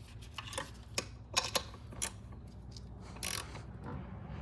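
Irregular small metallic clicks and taps of hand tools as 12 mm nuts are fitted back onto intake manifold studs, with a brief scrape a little after three seconds, over a steady low hum.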